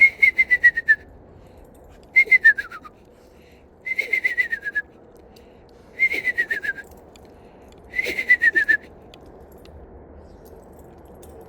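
Whistled imitation of a screech owl's whinny, given five times about two seconds apart: each call is a quavering whistle that falls in pitch and lasts under a second.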